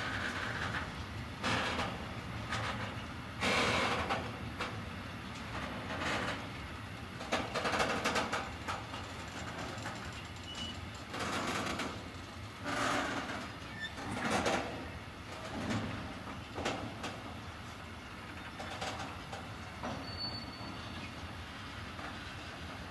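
Empty container flat wagons of a freight train rolling past, a steady rumble of wheels on rail with louder bursts of wheel noise every couple of seconds, easing off near the end.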